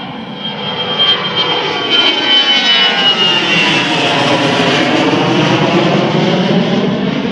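Fokker 70 jet airliner's two Rolls-Royce Tay turbofans at takeoff power as the plane passes close by: loud and steady, with a high whine that falls in pitch as it goes past.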